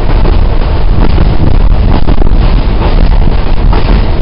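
Passenger train running at speed, heard through an open carriage window: a loud steady rumble and rush of air with wind buffeting the microphone, and irregular knocks from the running gear.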